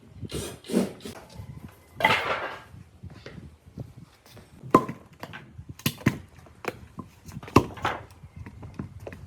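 Wood being handled on a workbench: irregular knocks and clatter of wooden pieces, with two sharper knocks in the second half and a brief scraping rush about two seconds in.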